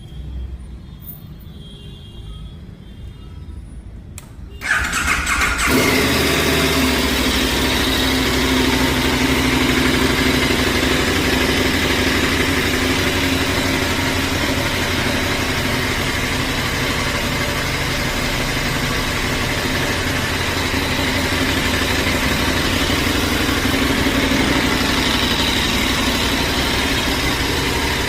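KTM 1290 Super Adventure S's V-twin engine starting about four and a half seconds in, then idling steadily through its exhaust.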